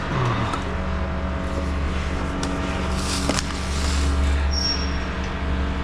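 Resistance spot welder growling with a loud, steady low drone, with a few sharp clicks partway through.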